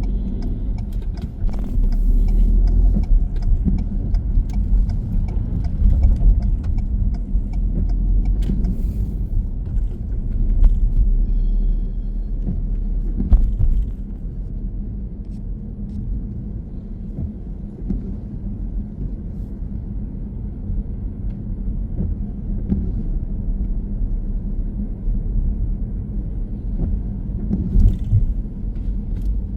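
A car driving, with a steady low rumble of engine and road noise that eases somewhat about halfway through. Scattered light clicks and a brief high tone sound over it.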